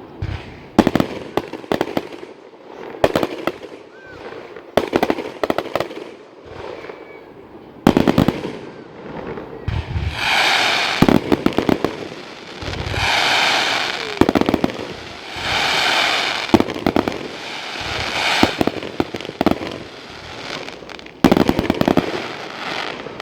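Fireworks going off: a series of sharp bangs and rapid crackling bursts, with three longer hissing swells about two and a half seconds apart in the middle.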